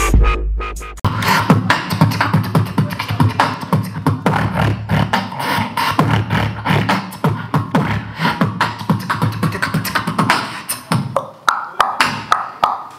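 Live beatboxing: fast, dense mouth percussion with low bass kicks and sharp clicks, starting about a second in as a stretch of electronic music cuts off.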